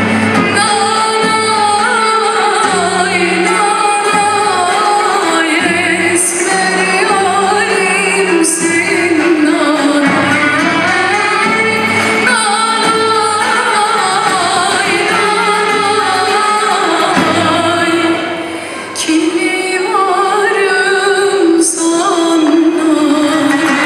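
A woman sings a Turkish folk song (türkü) with a traditional ensemble of violins, oud, kanun, clarinet and percussion, over a steady beat. The music dips briefly about three-quarters of the way through.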